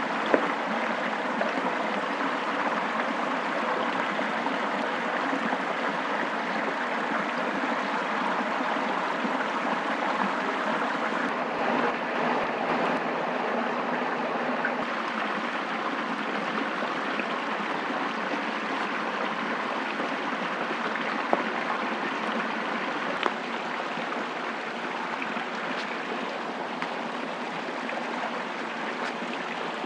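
Steady rush of running water, like a forest stream, with a few sharp clicks, one just after the start and two around three quarters of the way through.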